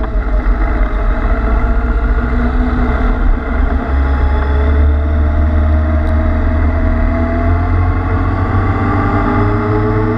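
Kawasaki Z800's inline-four engine running under way, recorded from on the bike, its pitch sagging slowly and then climbing again near the end as the throttle is opened. A heavy low rumble of wind noise sits under it from about four seconds in.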